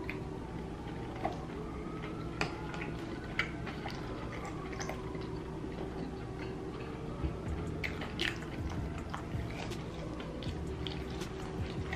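Mouth sounds of eating crunchy fried chicken: scattered small clicks, smacks and crunches of chewing and biting, over a steady low hum.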